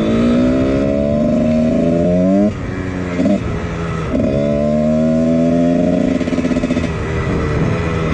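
1999 Husqvarna CR125's 125 cc two-stroke single engine, fitted with a Pro Circuit exhaust, being ridden hard. It revs up with a rising pitch, drops off sharply about two and a half seconds in, climbs again, then falls away near the end.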